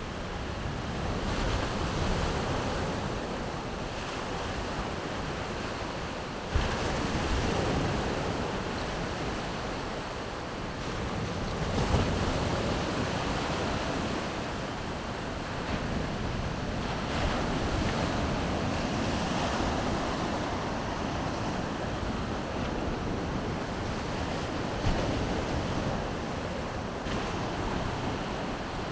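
Baltic Sea surf washing onto the shore, the waves swelling and easing every few seconds, with wind buffeting the microphone. Three short thumps stand out, about a third of the way in, near the middle and near the end.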